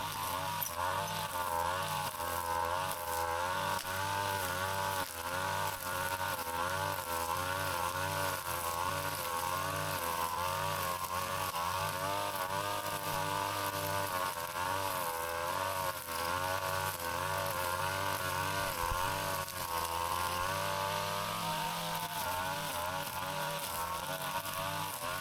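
Petrol brush cutter engine running at high speed, its pitch dipping and recovering every second or so as it cuts through grass and weeds.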